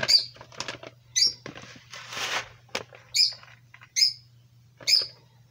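A small bird chirping, one short high chirp about once a second, over a steady low hum.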